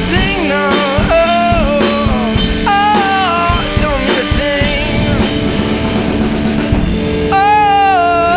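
Live blues-rock from a guitar-and-drums duo: drum kit hits under a lead line of bending, sliding notes, one note held long near the end.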